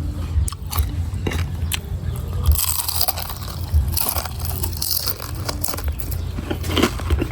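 Close-up biting and chewing of crunchy fried scorpions: a string of sharp crunches with a couple of longer crackling stretches.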